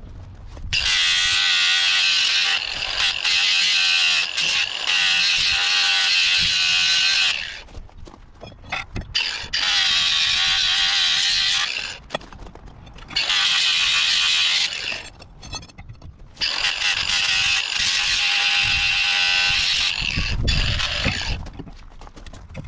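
Power grinder grinding rust off a steel crowbar, running in four bursts of several seconds with a high whine and scraping, and short pauses between them.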